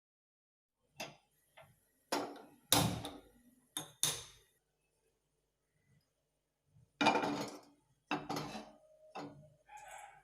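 Kitchen dishes and utensils knocking and clinking, about ten separate strikes at uneven intervals, each dying away quickly with a short ringing tail.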